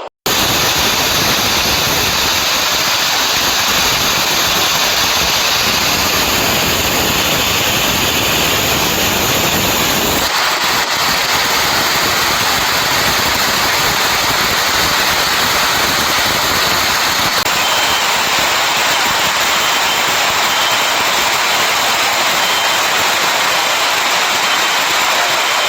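Steady, loud rushing storm noise with no pitch to it, changing in character about ten seconds in and again a little past halfway. In the later part a faint high beep repeats every second or so.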